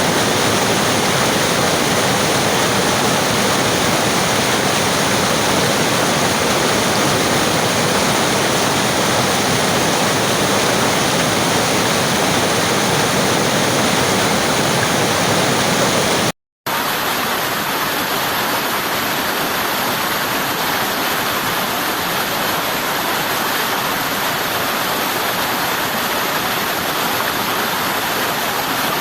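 River water rushing in a steady, dense roar of noise. Just past halfway it cuts out completely for a split second, then resumes slightly quieter and thinner in the low end.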